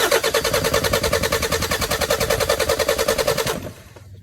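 Car engine being cranked by its starter motor: a rapid, even chatter over a steady whine for about three and a half seconds, then it stops suddenly.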